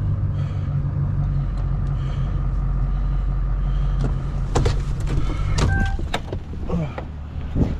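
An engine running steadily, with a cluster of sharp knocks and clatter about two-thirds of the way through, after which the engine sound drops away.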